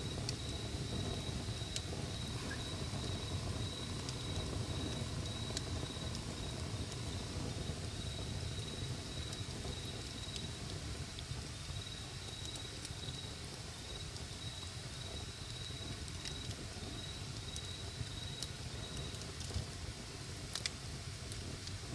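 Wood campfire burning with a low rumble and scattered sharp crackles and pops. An insect chirps in a steady, rapid high-pitched pulse behind it and stops near the end.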